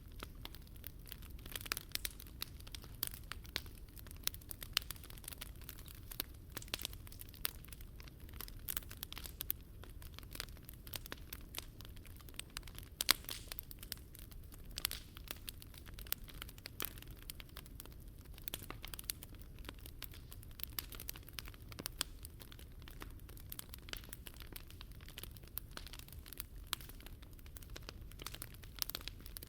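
Wood fire crackling in a Picogrill 398 fire pit, with dense, irregular sharp pops and snaps over a steady low rumble.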